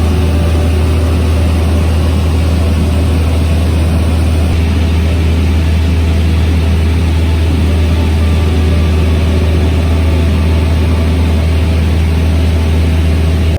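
Cessna 150's four-cylinder Continental O-200 engine and propeller running at a steady drone, loud and unchanging.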